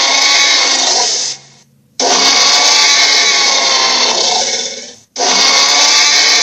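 Dragon toy playing its built-in sound effect through a small speaker: a loud, harsh, rasping sound about three seconds long, cutting off and starting again twice.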